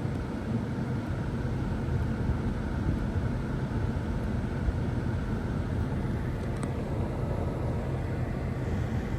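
Steady low rumble of the 2019 Infiniti Q60's 3.0-litre twin-turbo V6 running.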